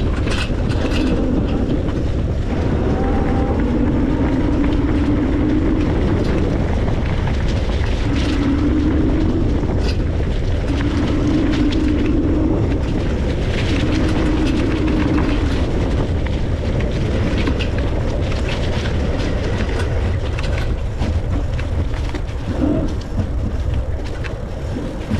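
Steady rumble of a moving e-bike ride: wind on the microphone and tyres on the road. A low hum comes and goes several times, and there are a few sharp rattles.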